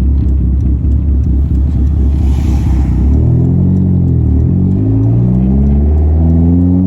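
Turbocharged SRT-4 four-cylinder engine under hard acceleration. After a steady low drone and a brief hiss, the revs climb from about three seconds in, drop sharply once near the middle, and climb again.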